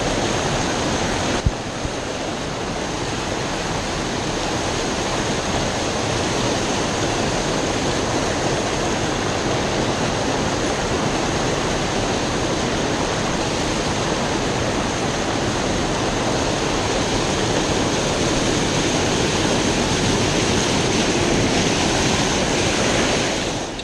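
Creek water pouring over a small waterfall, a steady rush of falling water, with a single brief click about a second and a half in.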